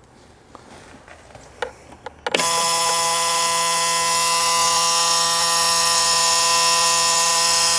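A few light clicks and knocks, then a little over two seconds in the Bobcat mini excavator's warning buzzer comes on with the key: a loud, steady electric buzz that holds unchanged, with the engine not yet cranking.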